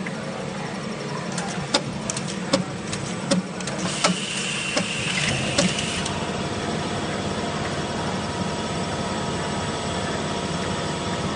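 Automatic linear bottle filling and capping machine running with a steady hum, with a string of sharp clacks over the first half and a hiss lasting about two seconds near the middle.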